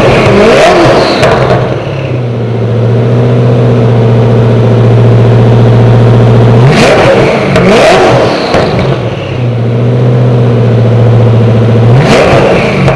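Koenigsegg hypercar engine held at a steady raised idle and revved sharply several times: near the start, about seven and eight seconds in, and near the end. Each time the pitch climbs quickly and falls back to the steady note.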